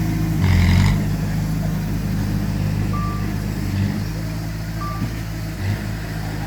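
Heavy diesel earthmoving machinery running steadily, with a brief surge of engine noise about half a second in. Two short single-pitched reversing-alarm beeps sound near the middle.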